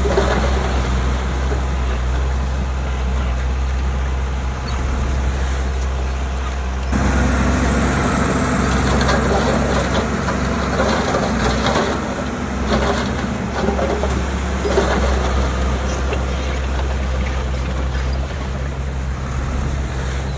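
Heavy diesel earthmoving machinery running under load: a steady low engine drone that becomes louder and fuller about seven seconds in.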